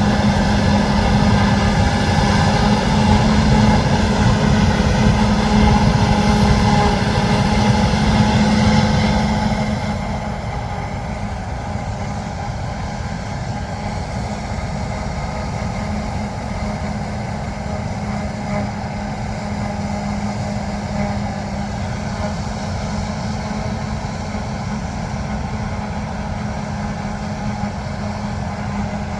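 Heavy harvest machinery running steadily, with a strong engine hum under mechanical noise. About ten seconds in it becomes quieter and duller, then carries on evenly.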